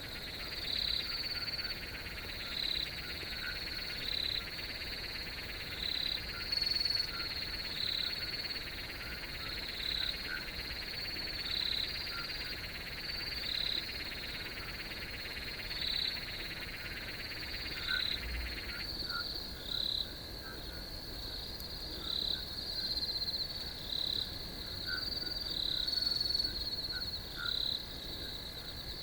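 Crickets chirping in a night chorus: a steady high trill with louder chirps pulsing about every second and a half. Under it runs a lower, dense buzzing chorus that cuts off suddenly about two-thirds of the way through.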